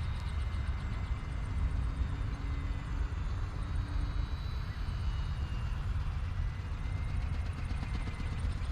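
Steady low rumble of wind on the microphone, with the faint hum of a small RC ornithopter's electric motor driving its flapping wings in flight.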